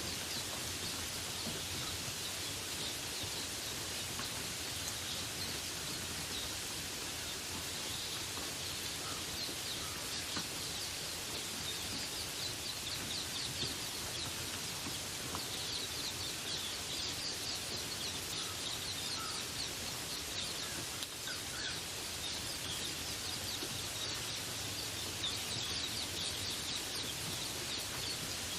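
Steady rain falling, with birds chirping now and then over it; the chirping is busiest in the middle.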